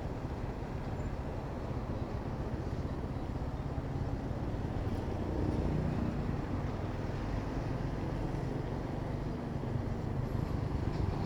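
Steady low rumble of road traffic mixed with wind on the microphone of a camera riding on a moving bicycle.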